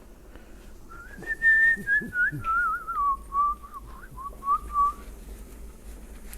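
A person whistling a short, wavering tune that starts about a second in, opens on a higher held note, then drops lower and warbles before stopping at about five seconds.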